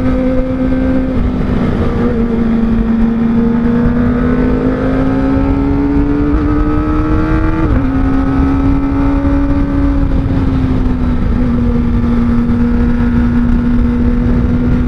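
Kawasaki ZX25R's 250 cc inline-four running through an R9 Zeta aftermarket exhaust while riding up a climb. The high-revving note climbs slowly, drops sharply at an upshift about eight seconds in, then holds steady with a smaller drop near eleven seconds.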